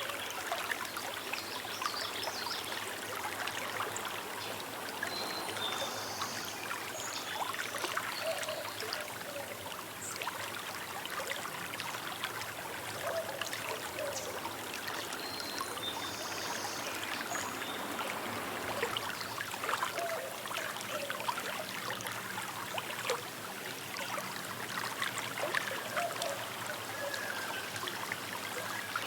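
A small river running and burbling over stones, a steady dense trickle and splash of water. A few short high bird calls come through now and then.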